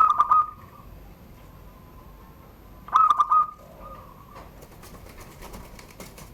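Zebra dove (perkutut) cooing in the 'surung gdor' song style: two short, rapidly pulsed coo phrases about three seconds apart.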